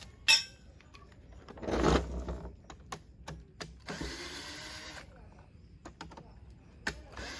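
Mechanical handling noises: a sharp click, a rustling scrape and scattered knocks as parts of a metal camp-kitchen unit are worked apart. About four seconds in, a small electric power tool motor runs for about a second.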